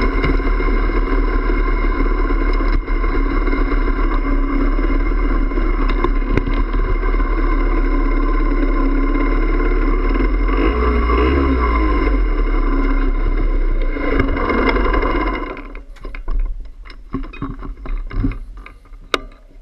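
Yamaha DT50M's 50 cc two-stroke single-cylinder engine running steadily while riding, then cut off abruptly about three-quarters of the way through. After it stops there are scattered clicks and knocks.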